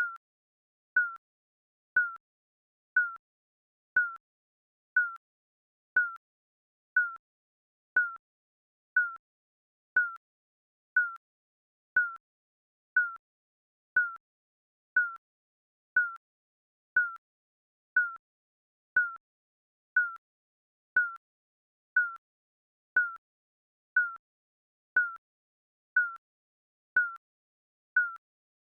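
Digital countdown timer beep: a short electronic tone, once a second, evenly spaced, with near silence between beeps.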